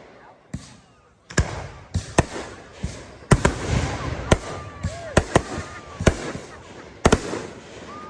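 Aerial fireworks from 500 gram cakes and 3-inch artillery shells: about a dozen sharp bangs at an uneven pace, with crackle between them.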